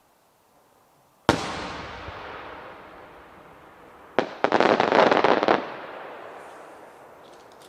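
Large aerial firework shells: one sharp boom about a second in, its rumble echoing away over several seconds. About three seconds later comes a single crack, then just over a second of dense, rapid crackling that also echoes away.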